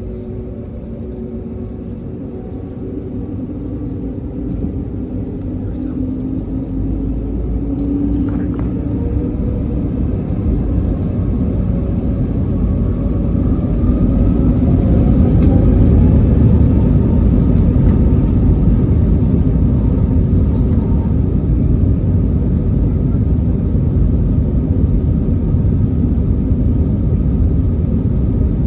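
Airbus A321neo cabin during the takeoff run: the engines spool up with faint rising whines while the rumble grows steadily louder over the first fourteen seconds or so, then holds at a loud, steady roar of full takeoff thrust and the roll.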